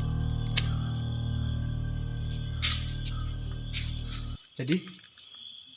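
Crickets chirping in a steady, pulsing high trill. Under it a low steady hum stops abruptly about four seconds in.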